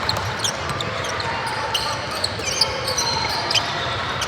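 Basketball bouncing on a gym court amid a steady background of hall noise, with many short high-pitched squeaks scattered through it.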